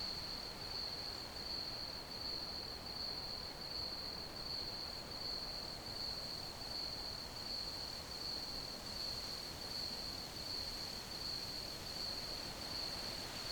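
Crickets chirping: a continuous high-pitched trill with a slight, even pulse, over a soft steady hiss.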